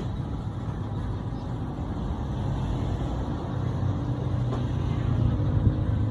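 A vehicle engine running steadily with a low rumble, growing slightly louder in the second half.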